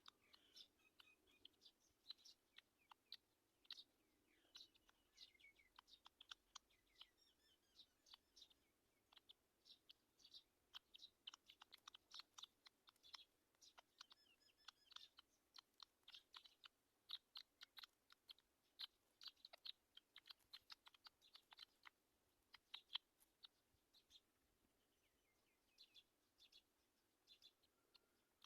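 Faint bird chirps over a run of quick, irregular clicks and ticks.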